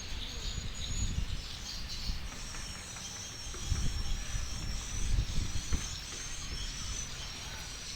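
Outdoor ambience: a steady high insect drone, with a few dull low thumps on the microphone around the middle.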